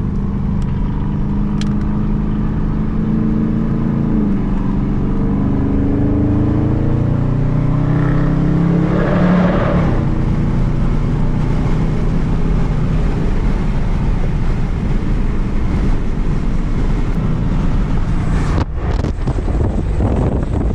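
Dodge Charger Scat Pack's 6.4-litre HEMI V8 under way: its note climbs as the car accelerates, then settles to a steady cruise. Wind buffets the microphone briefly near the end.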